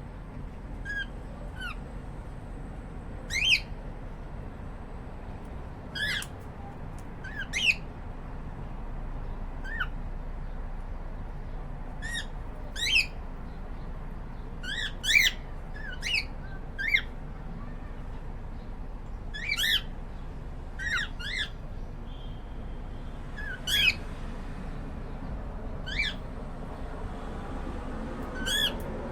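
Cockatiels giving short chirping calls, scattered irregularly and sometimes in quick pairs, over a steady low hum.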